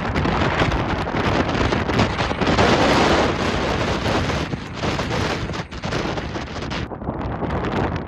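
Storm-force wind buffeting the microphone in loud, shifting gusts, easing a little about seven seconds in.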